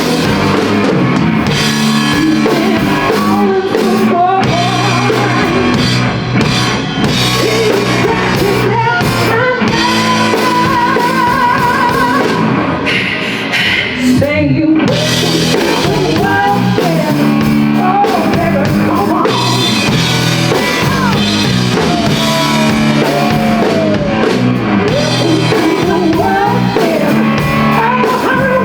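Live blues-rock band playing at full volume, with drum kit, electric guitar and singing over a steady beat.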